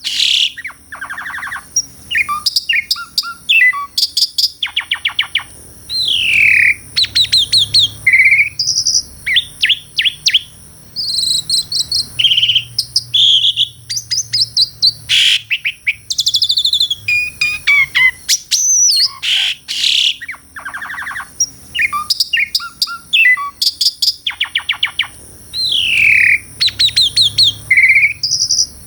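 Pied starling (jalak suren) singing a long, varied song of slurred rising and falling whistles, rapid rattling clicks and short harsh notes, with phrases repeated.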